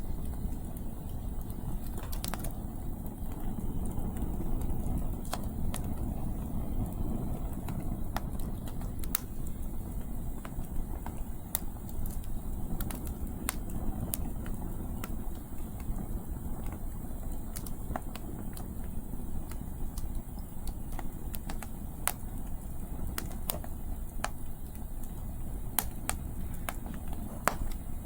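Wood fire crackling, with scattered sharp pops every second or so, over a steady low rumble of wind.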